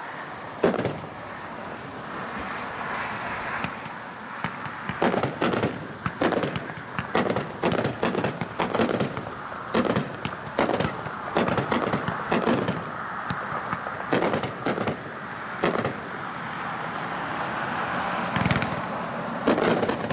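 A 30-shot, 500-gram consumer fireworks cake firing at a distance. It gives a long run of sharp bangs, several a second at its busiest, over a steady hiss, with a few last bangs near the end.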